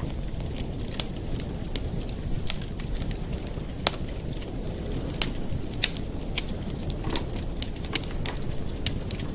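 Campfire burning, with a steady low rumble and irregular sharp crackles and pops of the wood, one louder pop about four seconds in.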